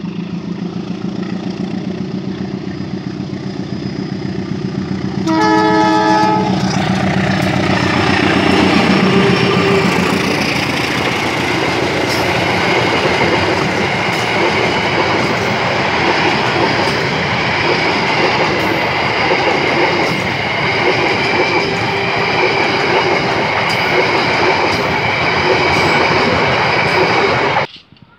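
CC203 diesel-electric locomotive approaching with its engine running, sounding one short horn blast about five seconds in. Then the locomotive and its passenger coaches roll past close by, the wheels clacking over the rail joints, until the sound cuts off suddenly near the end.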